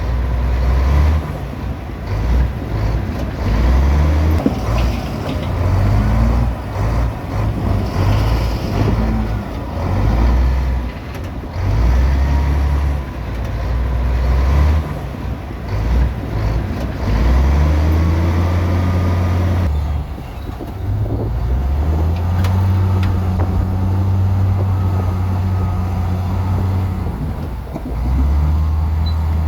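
Heavy diesel engines of earthmoving machinery running under changing load, with knocking and scraping noise over the engine sound. About two-thirds of the way through, the sound switches abruptly to a steadier low engine drone.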